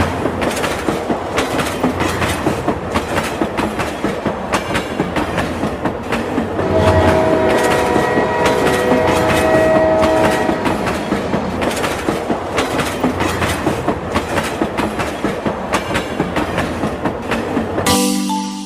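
A train running on rails with rapid clickety-clack of wheels over rail joints, and its horn sounding a held chord for about four seconds around the middle.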